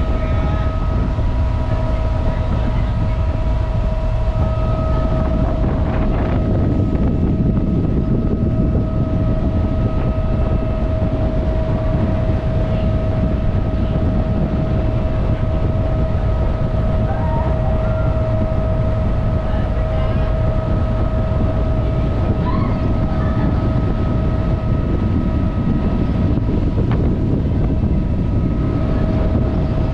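Ferry running under way: a steady low engine rumble with a constant hum over it, and wind on the microphone.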